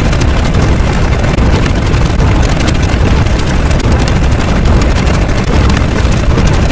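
Loud, steady noisy rumble, heaviest in the bass.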